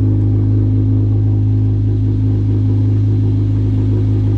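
A motor vehicle engine idling steadily close by, holding one even low pitch.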